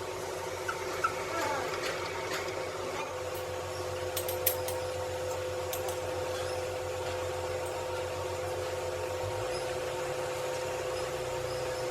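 A machine running with a steady hum. Its low drone shifts slightly about three-quarters of the way through, and there are a few small clicks near the start and around a third of the way in.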